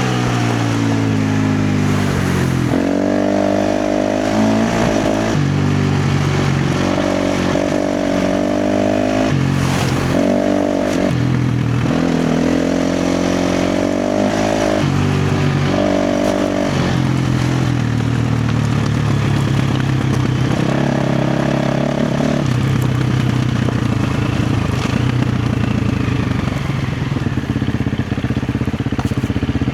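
KTM 350 XC-F dirt bike's single-cylinder four-stroke engine ridden hard off-road: the throttle is snapped open and shut again and again, the engine note jumping up and down every second or two. In the last third the engine runs steadier at lower revs.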